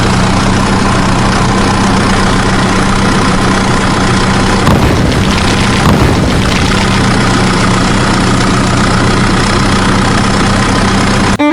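Tractor engine idling steadily: a loud, even low drone that turns rougher for a moment about five seconds in.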